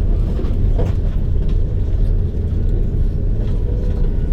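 Steady low rumble inside an Airbus A330-300 cabin as the airliner rolls along the ground after landing, with a few faint clicks.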